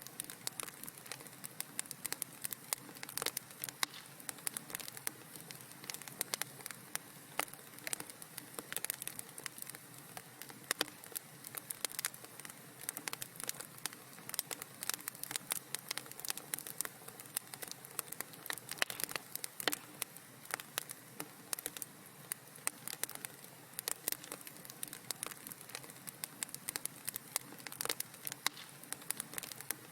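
Wood fire in a fireplace crackling, with many small, irregular sharp pops over a soft steady hiss.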